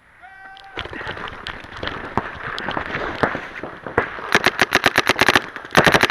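Paintball markers firing: scattered shots from about a second in, then a fast, even string of shots at about nine a second starting around four seconds in, which pauses briefly and starts again near the end.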